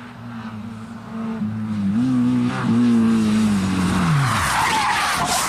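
Rally car engine running at a steady high pitch, lifting briefly about two seconds in. About four seconds in its note drops away steeply, giving way to a loud rushing skid noise and a sharp hit near the end.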